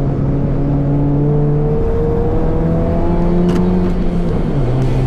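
Toyota Vios race car engine under acceleration, its pitch climbing steadily over a couple of seconds.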